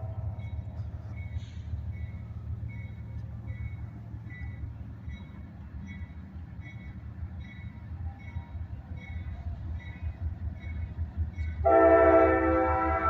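Approaching diesel freight train rumbling, with a grade-crossing bell dinging about twice a second. The locomotive's multi-note air horn blows again loudly near the end.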